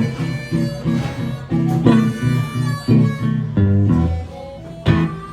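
Blues instrumental break: guitar picking with harmonica, no singing.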